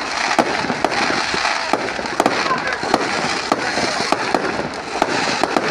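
Aerial fireworks bursting overhead: a rapid, irregular run of sharp bangs and pops, several a second, over a steady noise.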